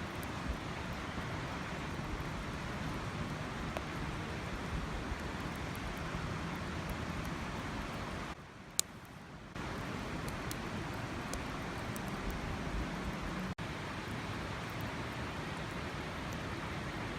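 Steady rushing outdoor noise with occasional sharp crackles and pops from a wood campfire. The sound drops away for about a second just after halfway, then cuts out for an instant near the end.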